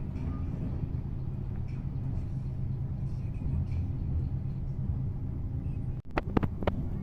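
Steady low rumble of a moving vehicle. About six seconds in it cuts off abruptly, and a few sharp clicks or knocks follow.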